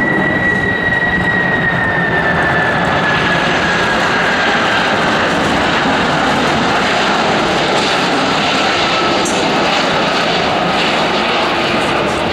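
Jet aircraft engines running loud at close range as the plane passes, a steady roar with a high whine that falls slowly in pitch.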